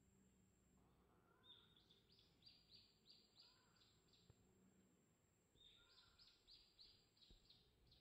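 Faint songbird singing: a short phrase of about eight quick repeated high notes, given twice, with a few softer, lower notes between the phrases.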